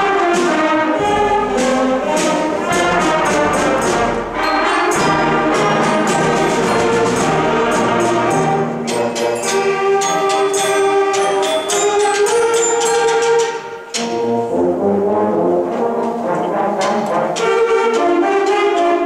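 Sixth-grade concert band playing a Christmas-song arrangement, brass to the fore over regular percussion strikes, with a brief break in the sound about two-thirds through.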